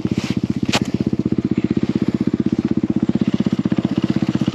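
Snow bike's single-cylinder engine running steadily at low revs, a fast even putter, with one sharp click about three-quarters of a second in.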